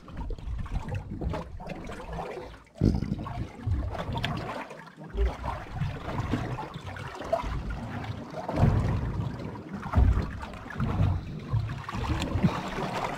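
Water sloshing and splashing around a small fishing boat at sea, with gusts buffeting the microphone.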